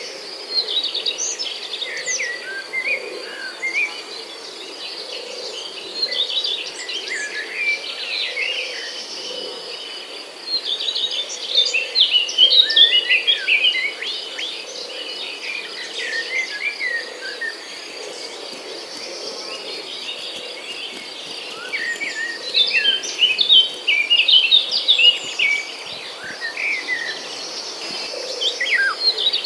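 Several songbirds chirping and singing in bursts of quick, sweeping notes over a steady high insect trill.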